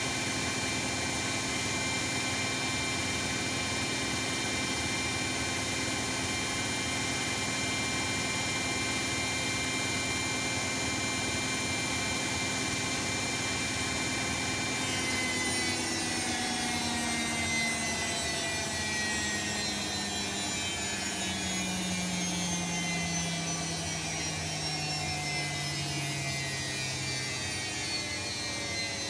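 Bosch WAE24162 washing machine on its spin: the drum motor runs at a steady speed with a steady high whine and rushing noise. About halfway through, the whine starts falling steadily in pitch as the drum slows down, winding down from the spin.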